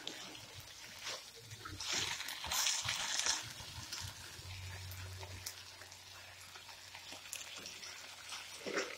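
Okra, chicken and vegetables frying in a pan while a spatula stirs them, with a louder stretch of stirring and sizzling about two seconds in.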